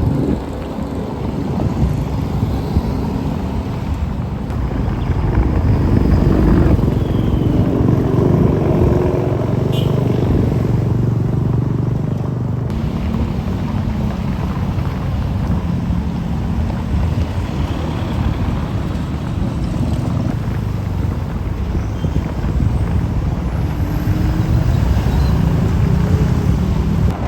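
Road traffic passing: engines of buses, trucks and cars going by in a steady stream, swelling louder twice as heavier vehicles pass.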